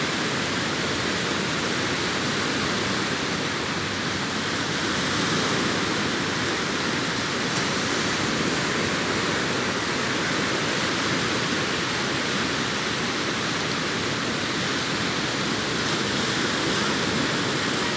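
Sea waves breaking on a beach, heard as a steady, even wash of surf.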